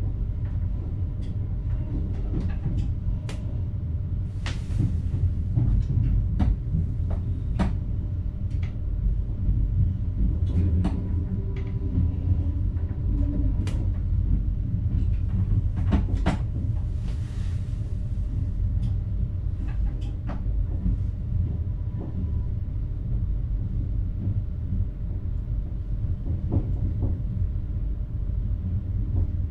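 Train running, heard from inside the driver's cab: a steady low rumble with many scattered clicks and knocks, and a short hiss twice, about five seconds in and again about seventeen seconds in.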